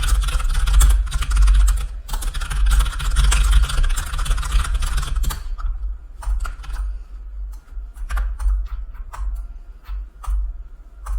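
Computer keyboard typing in a fast, dense run for about five seconds, then slowing to scattered single key clicks.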